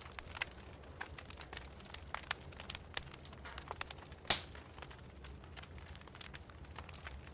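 Wood fire crackling in a fireplace: scattered sharp pops and snaps over a low steady rumble, with one louder pop about four seconds in.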